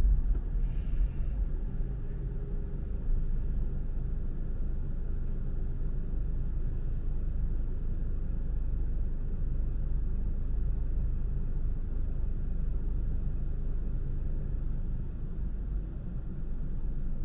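Steady low rumble of a car on the move: engine and tyre noise on the road. A faint, brief higher-pitched sound comes about a second in.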